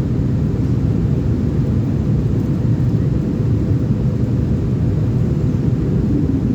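Steady low rumble of an airliner's cabin noise heard from a window seat, the engines and airflow making an even roar with no distinct events.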